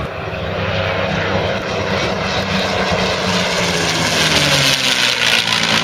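Propeller-driven aircraft flying past with its piston engines running, growing louder, and its engine note dropping in pitch about four seconds in as it passes.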